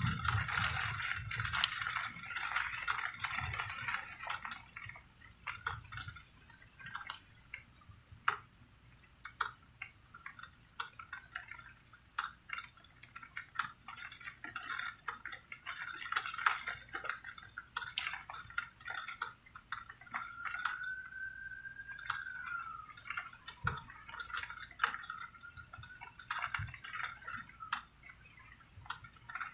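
Rain dripping and splashing in irregular drops, with the tail of a low thunder rumble dying away at the very start. Under the drops runs a faint steady high tone, with one rising-then-falling whistle about twenty seconds in.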